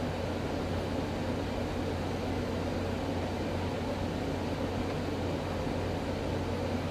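Revlon One-Step hot-air brush hair dryer running steadily: a motor hum under a constant rush of air.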